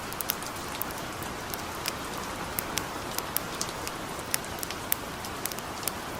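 Steady hiss of gentle rain mixed with a campfire's sharp crackles and pops, a few each second at irregular intervals.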